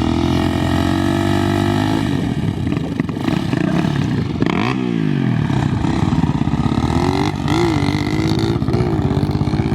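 Off-road vehicle engine running and revving, its pitch dropping sharply and climbing back about halfway through, then rising and falling a few times near the end.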